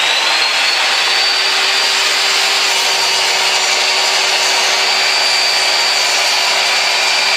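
Ryobi 10-inch sliding compound miter saw's motor and blade spinning up and running at full speed, with a high steady whine that climbs and settles within the first second.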